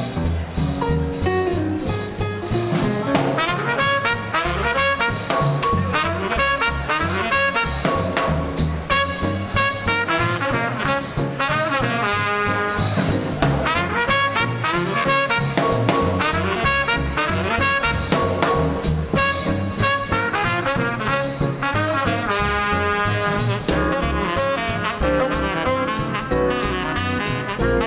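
Small-group swing band playing an instrumental passage: trumpet and saxophone lines over piano, bass and drums keeping a steady swing beat.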